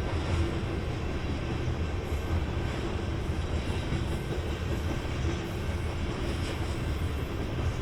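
BNSF freight train passing on the track, a steady low rumble of the train running by without let-up.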